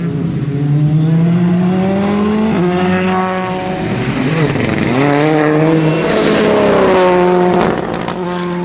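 Rally car engine driven hard through the gears. The pitch climbs, drops at a gear change about two and a half seconds in, climbs again, and drops once more near the end.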